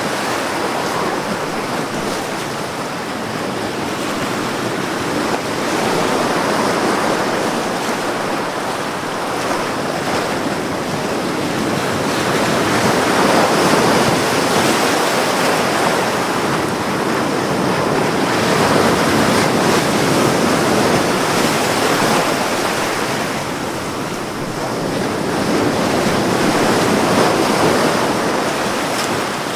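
Ocean waves breaking and washing up on a beach, a steady surf hiss that swells and falls back every several seconds.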